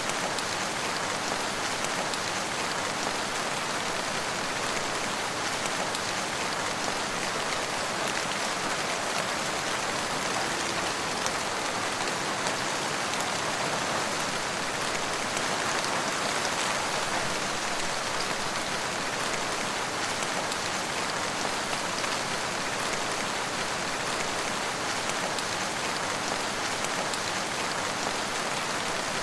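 Steady rain falling on surfaces, a dense even patter of drops with no thunder or other events.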